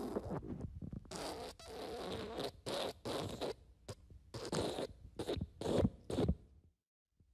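A quick series of fart sound effects, raspy bursts of varying length, the later ones short and clipped, stopping to silence near the end.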